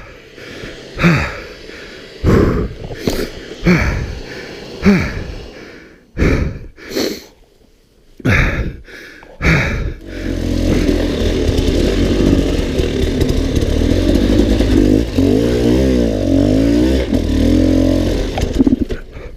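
Dirt bike engine revved in a series of short bursts with knocks and clatter in between, then running continuously with wavering revs for the last nine seconds or so, as it is worked up a hard enduro trail.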